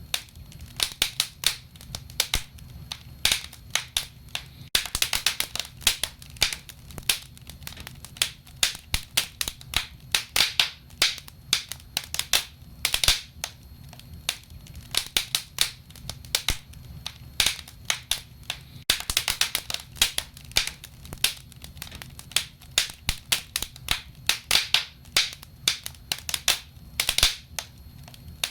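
Burning wood crackling: irregular sharp pops and snaps, several a second, over a low steady rumble of the flames.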